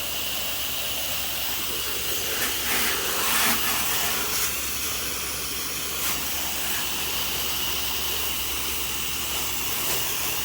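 Pressure washer spraying a bleach soft-wash solution: a steady hiss of spray from the wand, with the machine's engine running steadily underneath.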